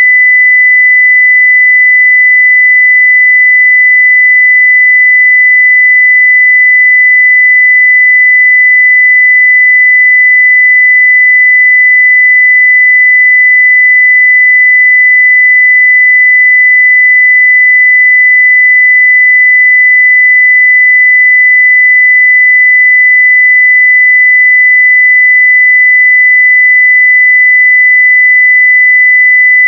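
A 2 kHz sine-wave test tone at full level (0 dB), a single steady high-pitched pure tone that doesn't change.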